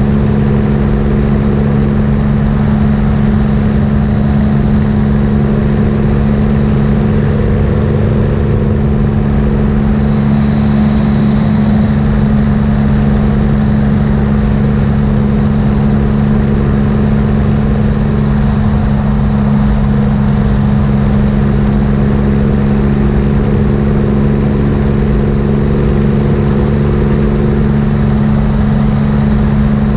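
Triumph motorcycle engine running at a steady highway cruise, a constant drone with no change in revs, mixed with wind rush over the microphone.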